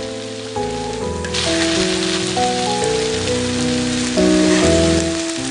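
Nochi, sweet malt-fermented dough cakes, sizzling as they fry in sesame oil, the sizzle growing stronger about a second and a half in. A slow instrumental melody plays over it.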